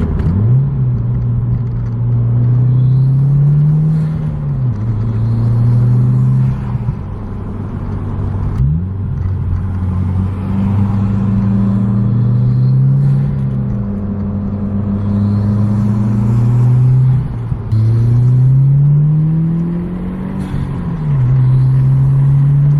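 Turbocharged car engine with an aftermarket MAPerformance intake, driven through several pulls: the engine note climbs in pitch under acceleration, then drops or settles, a few times over, with the intake loud throughout.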